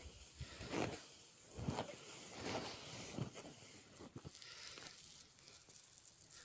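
Footsteps crunching in snow, about one step every second, growing fainter in the second half.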